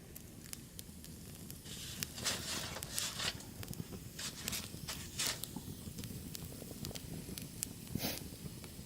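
Wood fire crackling with scattered sharp pops, overlaid by several louder rustling bursts in the middle and once more near the end.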